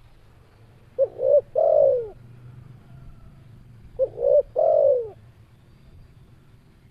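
Spotted dove cooing: two phrases about three seconds apart, each two short notes followed by a longer falling coo.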